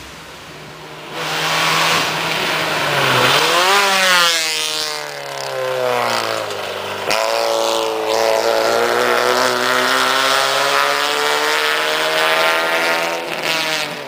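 Rally car engine at high revs, its pitch climbing steeply and dropping back at gear changes. About seven seconds in the sound changes abruptly, then runs on at a fairly steady high rev before fading near the end.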